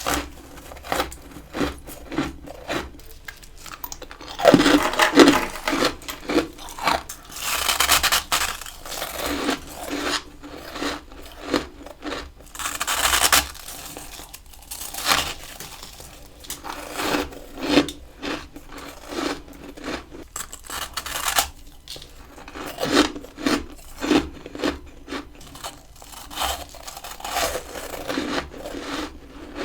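Close-miked biting and chewing of freezer frost ice: a run of crisp crunches, with a few louder, longer bites among them.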